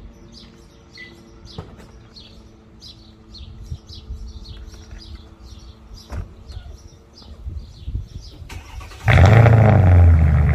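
Birds chirping and a couple of clunks, then about nine seconds in the muffler-deleted V8 of a Mercedes-AMG CL63 (W216) fires on a cold start: a loud rev flare that rises and drops back to a loud, steady fast idle.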